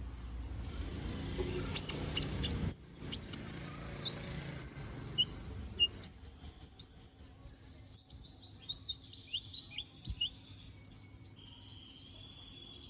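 Konin, the brown-throated sunbird, singing energetically: a quick jumble of sharp, high chirps and short trills, with one fast even run of notes in the middle. A low rumble of background noise runs under the first few seconds.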